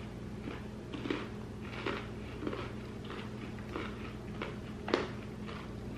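A person biting into and chewing a piece of soft milk chocolate toffee: short, soft crunching sounds about one to two a second, the strongest about five seconds in, over a faint steady hum.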